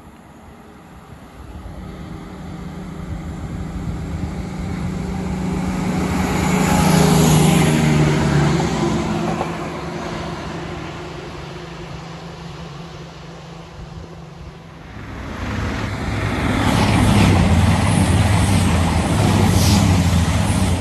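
Diesel multiple unit passing at line speed, its underfloor diesel engine and wheels on the rails swelling to a peak, easing, then swelling again to a second loud peak with a deeper engine note before cutting off suddenly.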